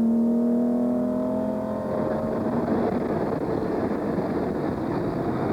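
Classic car engine running hard at speed, a strong steady note that sags slightly in pitch and fades about two seconds in as the car passes, leaving a rough rushing engine and road noise.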